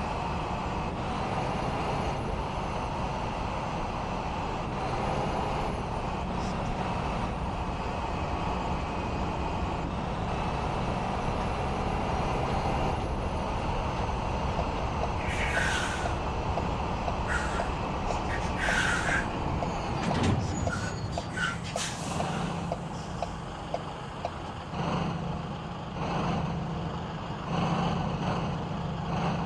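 Truck engine running steadily, with several short high hissing bursts about halfway through, followed by a brief cluster of knocks and clicks.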